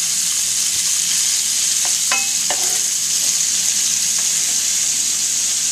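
Chicken breast pieces and garlic sizzling steadily in butter and olive oil in an electric skillet, stirred with a slotted spoon. The spoon gives a few light knocks against the pan about two seconds in.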